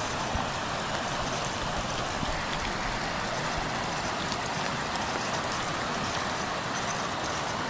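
Water running steadily, a constant even rush.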